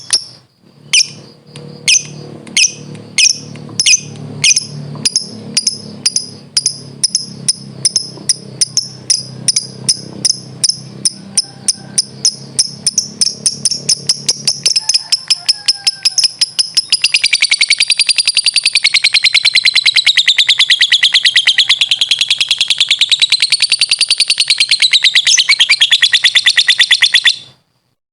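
Lovebird ngekek: a long chattering song of sharp, high chirps that speed up from about two a second into a rapid continuous trill, wavering up and down in pitch, then stopping abruptly shortly before the end.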